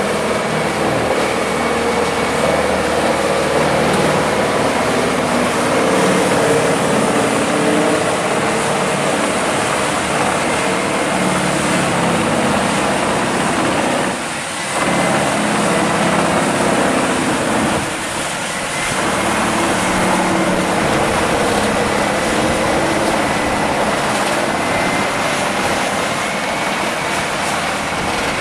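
Heavy machine running steadily and loudly with a dense engine noise, dipping briefly twice about halfway through.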